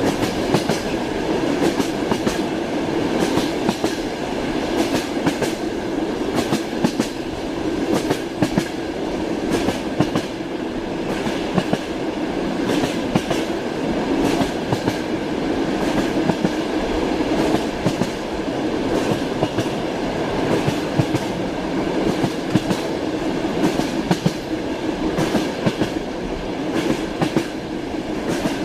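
Train running along the track, its wheels clattering over the rail joints in frequent sharp clicks over a steady rumble.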